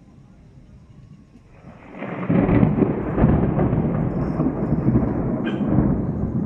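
Thunder: a quiet lull, then a loud, low rumble builds about two seconds in and keeps rolling.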